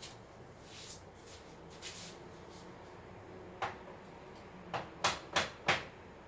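Parts of a baby crib being handled and fitted together: a few soft scrapes, then sharp knocks, one on its own and four more in quick succession near the end.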